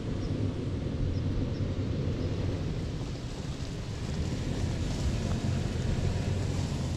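Toyota 4Runner driving past on the road, a steady low rumble of engine and tyres.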